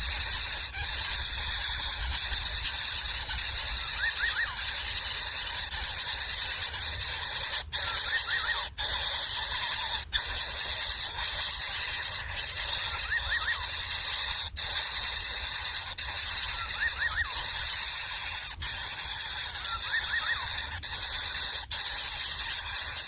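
Steady high-pitched hiss of outdoor ambience, with a small bird giving short groups of quick high chirps every few seconds. The sound briefly cuts out several times.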